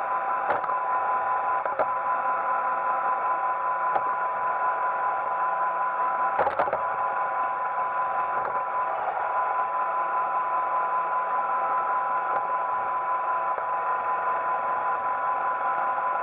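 Roomba 880 robot vacuum running, a steady motor and brush noise with a steady whine through it. A few short knocks break in, the loudest about six and a half seconds in.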